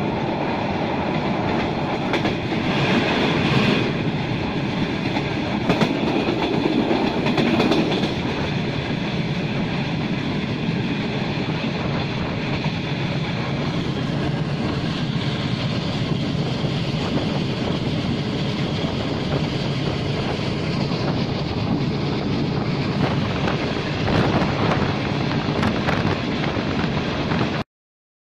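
Running noise of a moving passenger train, heard from an open coach doorway: a steady rumble and clatter of the coach wheels on the rails, with rushing air. The sound cuts off suddenly near the end.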